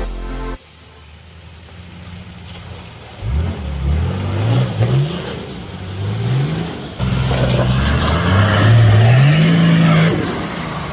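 Four-wheel-drive vehicle's engine revving up and down over and over, the pitch climbing several times in a row, as it works through a muddy bog-hole track.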